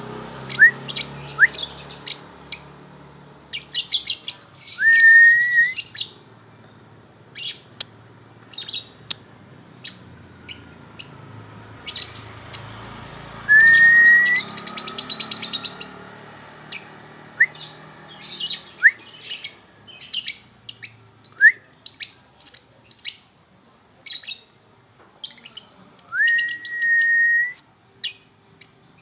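Songbird singing in bursts of fast, high chirps and trills, broken by a rising whistle held for about a second, three times.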